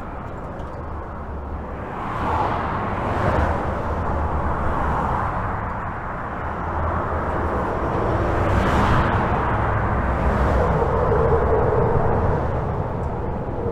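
Continuous highway traffic heard from under a bridge: a steady low rumble of tyres and engines, with single vehicles swelling past every second or two, louder in the second half. A passing vehicle leaves a brief steady hum near the end.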